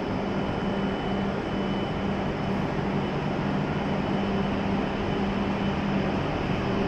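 W7 series Shinkansen standing at the platform: a steady hum and hiss with a low, even drone that drops out briefly now and then.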